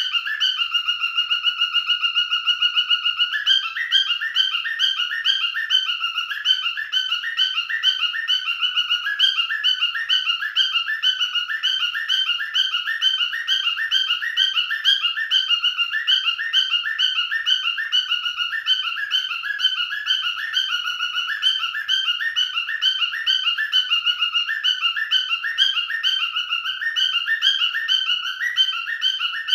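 Male cockatiel whistling its song: one long held note near the start, then a continuous run of quick warbling whistled notes.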